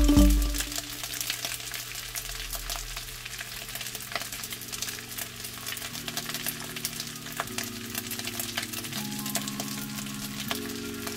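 Food frying in a hot pan, a steady sizzle with many small crackling pops.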